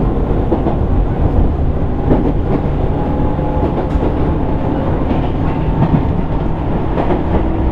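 JR East 205 series 600-number electric train running, heard from inside a motor car: a steady rumble of wheels on rail with faint motor and gear tones and a couple of sharp knocks from rail joints.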